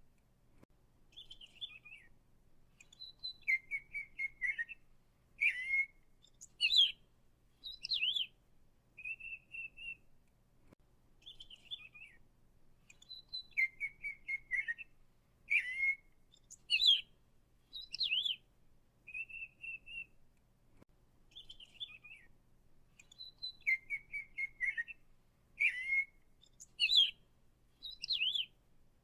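Songbird singing: short chirps, quick trills and whistled notes, with the same sequence of phrases repeating about every ten seconds.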